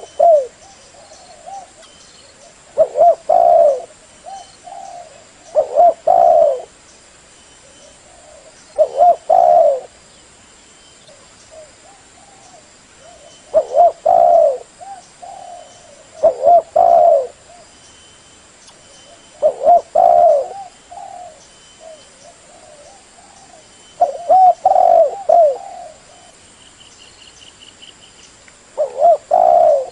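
Spotted dove (tekukur) cooing: short phrases of a few low, mellow coo notes, repeated about every three seconds.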